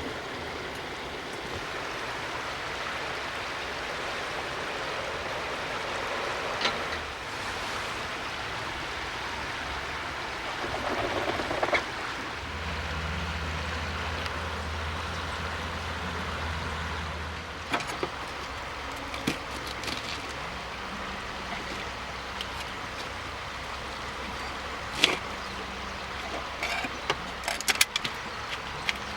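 Steady road and engine noise of a vehicle being driven, with a low hum in the middle stretch and a few short clicks and knocks.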